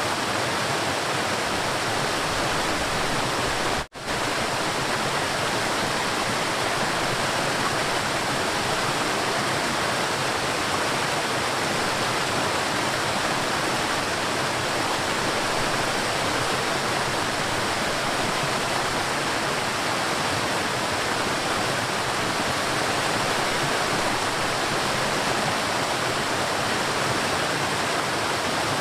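River water flowing and rushing steadily. The sound cuts out for an instant about four seconds in, then carries on unchanged.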